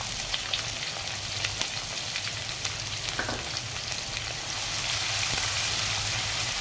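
Chopped onion sizzling and crackling in hot mustard oil in a kadhai, a steady hiss that grows a little louder about five seconds in as a wooden spatula starts stirring it.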